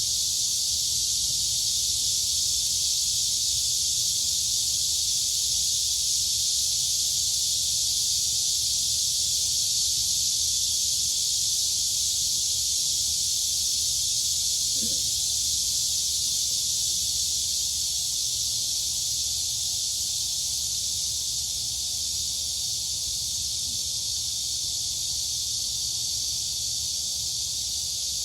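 Dense chorus of crickets and cicadas, a steady high-pitched shrill drone with no breaks.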